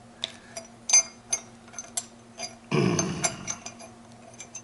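Metal gearbox parts clinking as a synchro ring is fitted onto a Ford 2000E gearbox's synchro hub: a few sharp separate clicks, the loudest about a second in, then a louder scraping rattle near three seconds in.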